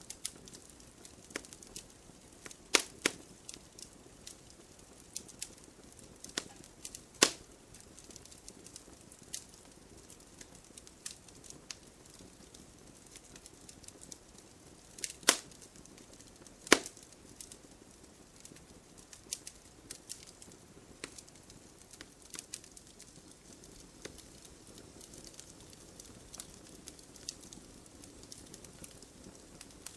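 Wood campfire crackling: irregular sharp pops and snaps over a low steady hiss of burning, with a few much louder snaps, two of them close together a little past halfway.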